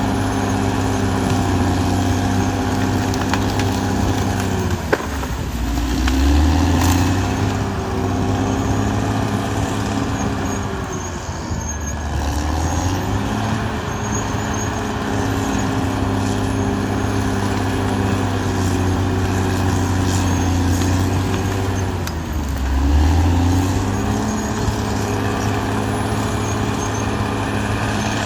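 Caterpillar D6R XL bulldozer's diesel engine running steadily. Its pitch sags and recovers three times, about five, twelve and twenty-two seconds in, with a sharp click just before the first sag.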